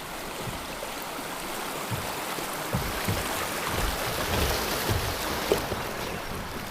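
Steady rushing of river current around a kayak as it moves downstream, with a few faint low thuds.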